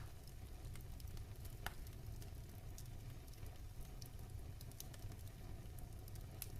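Wood fire in a fireplace crackling: scattered small pops over a low steady rumble, with one sharper pop about one and a half seconds in.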